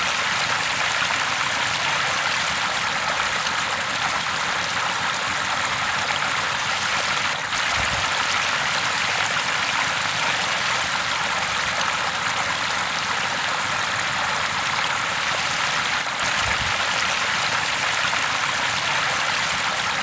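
River water flowing in an even, steady rush.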